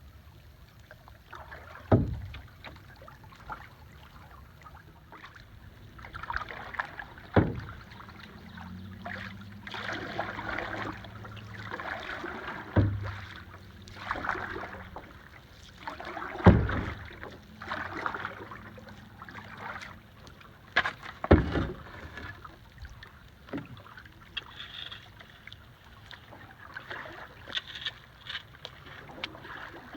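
Canoe paddling: water swishing off the paddle blade with each stroke, and a sharp knock of the paddle banging against the canoe's gunwale about every five seconds.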